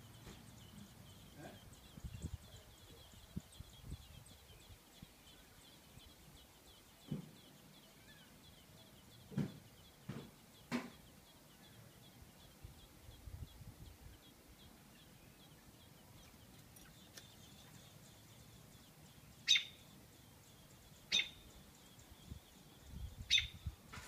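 Faint bird chirping, with three sharp, short high chirps in the last five seconds, and a few soft thumps in the first half.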